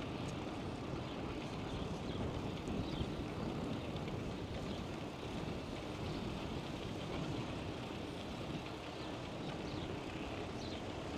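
Steady wind rumble on the microphone and rolling tyre noise from a moving bicycle, with a few faint high ticks near the end.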